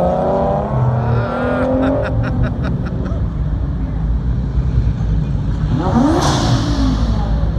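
Sports car engines running at low speed as cars creep along the kerb, a deep steady rumble. About six seconds in, a short rev rises and falls with a rushing hiss as another car rolls past.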